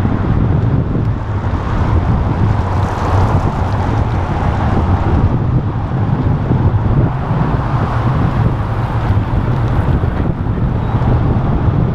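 Steady wind rumble on the microphone of a camera carried on a moving bicycle.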